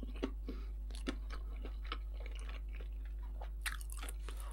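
Close-miked chewing of a mouthful of shawarma: soft wet mouth smacks and clicks at irregular moments, with a small cluster of them near the end, over a steady low hum.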